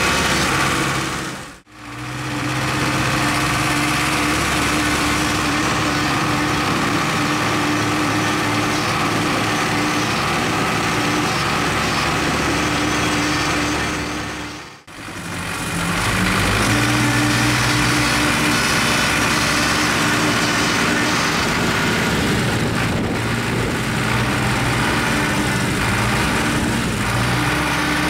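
Farm tractor diesel engine running steadily, heard in three clips joined by brief fade-outs about two seconds and fifteen seconds in.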